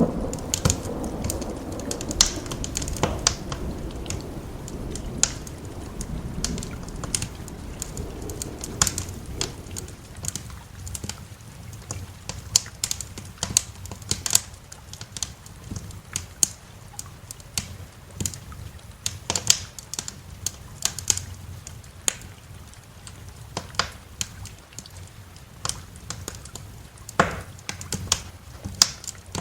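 Wood fire crackling in a fireplace, with irregular sharp pops and snaps. A low roll of thunder rumbles at the start and fades away over the first ten seconds or so.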